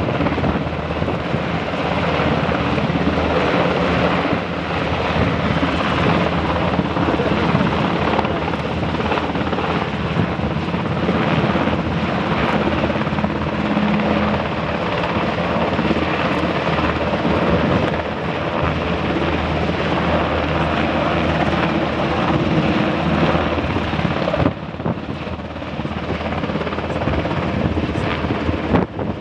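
HH-60 Black Hawk helicopter hovering, a loud, steady rotor and turbine noise with a constant low throb. About 24 seconds in the sound changes abruptly and the higher hiss drops away.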